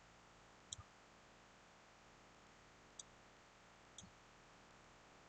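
Three faint computer mouse clicks, about a second in, at about three seconds and at about four seconds, over a low steady hiss.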